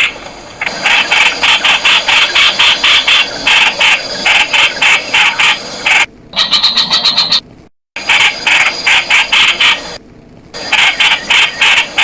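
Streak-eared bulbul calling: fast runs of short, bright chattering notes, about five or six a second, with brief pauses between runs and a quicker, higher-pitched series a little past halfway. The sound cuts out abruptly for a moment about two-thirds through.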